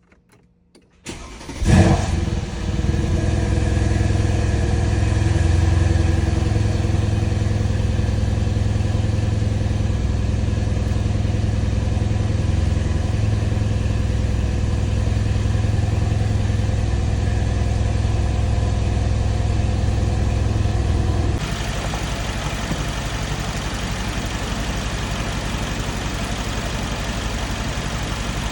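Mercedes-AMG M177 4.0-litre twin-turbo V8 cranking briefly, catching with a loud flare, then running at a raised idle that steps down to a lower, quieter idle about twenty seconds in. It is being started after a coil and spark plug replacement meant to cure a misfire.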